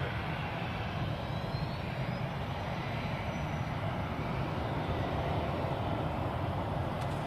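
Jet engines of a departing easyJet Airbus A319, a steady, even engine noise heard across the airfield.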